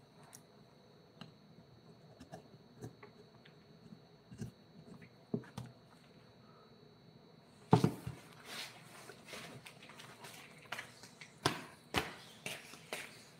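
Scattered light clicks and taps over a faint steady high whine, then a sharp loud knock a little past halfway, followed by a busier run of scraping and knocking.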